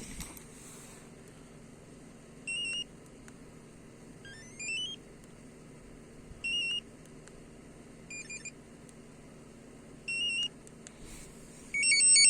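Short electronic beeps and chirps about every two seconds, one climbing in steps and one stuttering, over a faint steady low hum of an idling engine.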